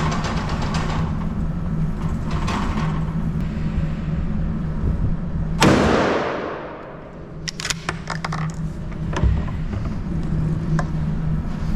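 A single gunshot about halfway through, its echo in the enclosed range dying away over about a second and a half, over a steady low hum. Several short clicks and knocks of gun handling follow.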